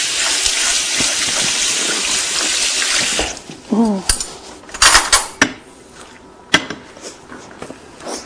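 Kitchen tap running steadily into a sink, shut off about three seconds in. After that come a short voice sound and a few sharp clinks and clatters of dishes.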